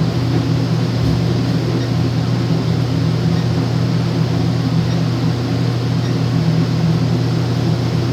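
Steady low mechanical hum over an even hiss, like ventilation or a running machine, unchanging throughout.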